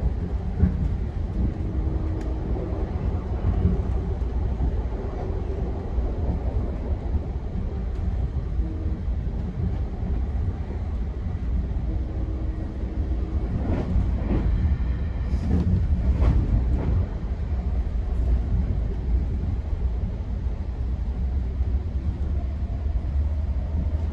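GO commuter train running between stations, heard from inside the coach: a steady low rumble of wheels on rail with a faint hum that comes and goes. A short run of clacks comes a little past halfway, as the wheels pass over joints or switches.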